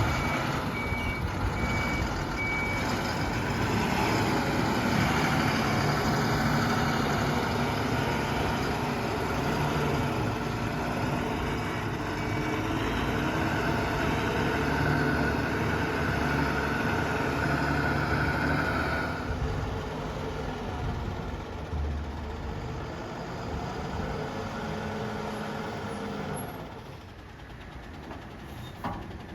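Diesel engines of a backhoe loader and tipper truck running, with a reversing alarm beeping in the first half. The engine sound drops away about two-thirds of the way through.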